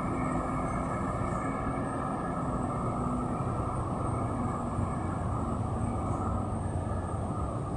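Heavy truck's diesel engine running steadily under load on a steep climb.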